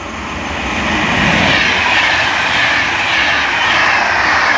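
Train passing close by on the rails, its wheel and rail noise growing over the first second and then staying loud.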